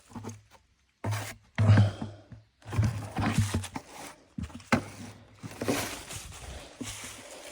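Knocks, scrapes and footsteps of mini moto parts being handled and moved around, in short separate clatters with a low hum coming and going between them.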